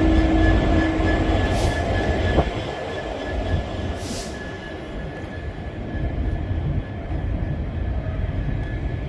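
Freight train rolling slowly past, with a low rumble from the wagons and a steady high wheel squeal. Two short hisses come about 1.5 s and 4 s in.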